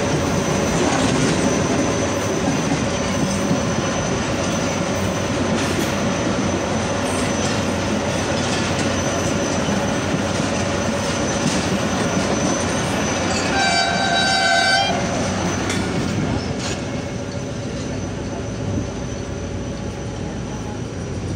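Passenger coaches of a passing train rumbling steadily over the track close by, with a thin high whine over the noise. A train horn sounds once, about a second and a half long, some two-thirds of the way through.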